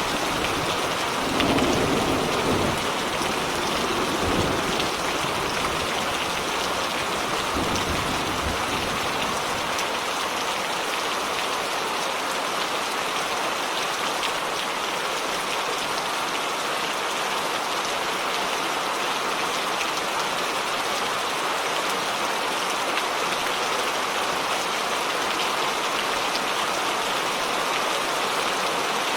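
Steady heavy rain falling, an even hiss. A low rumble of thunder dies away over the first several seconds.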